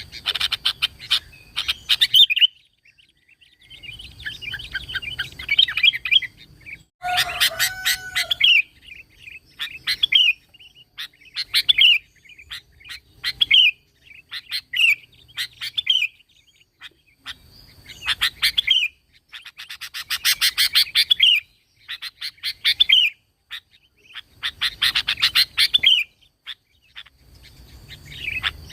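Sooty-headed bulbul singing in repeated bursts of rapid, chattering chirps, each a second or two long with short silent gaps between. About a third of the way in, one phrase includes a lower, clear whistled note.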